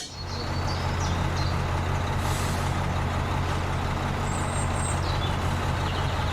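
Engine-like drone of the mini tractor starting up and running steadily, a low even hum.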